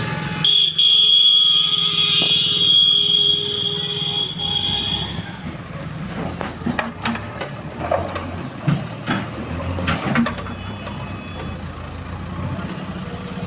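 Diesel engines of a backhoe loader and dump truck running with a steady low hum. A shrill, steady hissing tone starts sharply about half a second in and lasts about four and a half seconds, and scattered knocks and clatters follow in the middle of the stretch.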